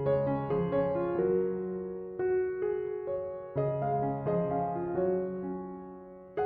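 Background piano music: a slow, gentle melody of notes and chords that ring and fade.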